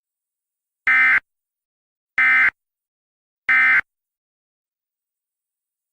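Emergency Alert System SAME data tones sent three times in short identical bursts, about 1.3 seconds apart. This is the End of Message (EOM) code that closes an EAS alert.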